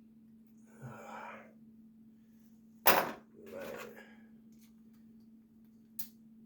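A breathy sigh, then one sharp loud click followed by another breathy exhale, over a faint steady hum; a small tick comes near the end. This is the sound of hand work on a carburetor with a stuck check ball.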